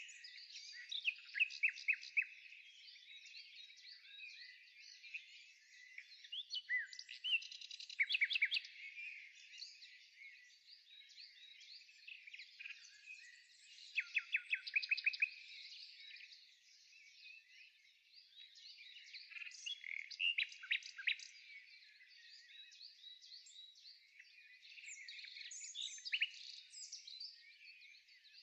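Birdsong: a chorus of small birds chirping and trilling, with a burst of fast repeated notes every several seconds.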